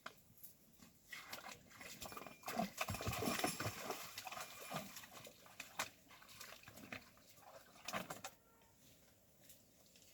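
An animal moving and making sounds: irregular rustling, clicks and knocks with a few short low sounds, busiest and loudest from about two and a half to four seconds in.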